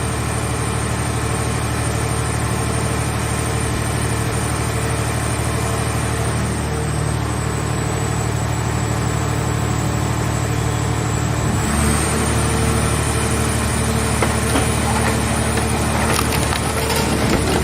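Scrap car baler running with a steady drone and a thin high whine; its sound shifts about twelve seconds in, and a run of sharp cracks and crunches comes near the end as the press works on a car shell.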